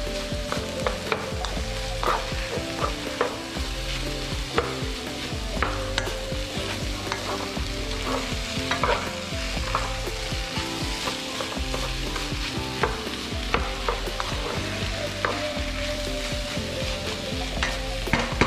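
Food frying in a pan with a steady sizzle, and frequent short clicks and scrapes of a utensil stirring it.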